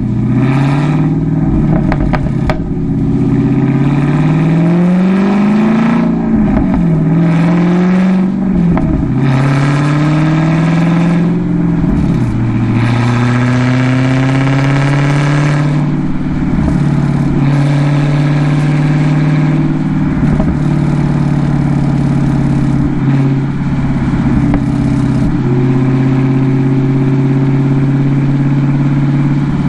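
Dodge Challenger Scat Pack's 6.4-litre HEMI V8 through a Borla exhaust, pulling gently through a few upshifts in the first dozen seconds, its pitch rising and then dropping back at each shift. It then settles into a steady low-speed cruise.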